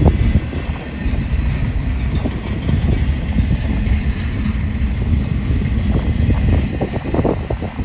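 Double-stack container freight train's well cars rolling past close by: a steady low rumble of steel wheels on rail, with a busy run of clattering knocks near the end.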